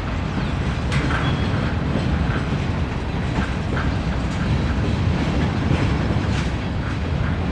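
Freight train rolling past, a steady rumble with wheels clicking irregularly over rail joints.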